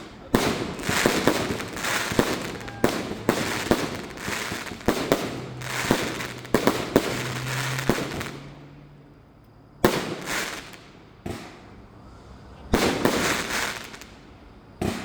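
A 49-shot consumer firework cake firing, a sharp report every half second or so. A lull of about a second and a half comes near the middle, then more scattered shots and a short cluster near the end.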